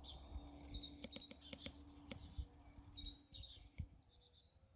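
Small songbirds chirping and twittering, scattered short high calls, with several light clicks and taps in the first part and a faint steady hum underneath.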